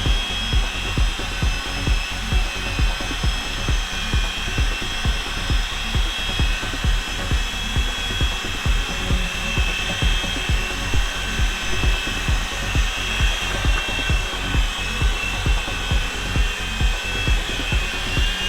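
Several Blade mCX2 micro coaxial helicopters with their small electric motors whining steadily, the pitch shifting near the end as they are brought in to land. Background music with a steady beat plays along with them.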